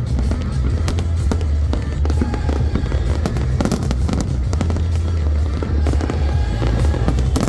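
Fireworks display: a rapid, unbroken barrage of bangs and crackles over a continuous deep rumble of shell bursts.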